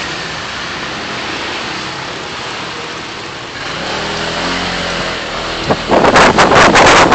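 Road and traffic noise from a vehicle driving in city traffic, with an engine hum growing louder about halfway through. About six seconds in, loud wind buffeting hits the microphone.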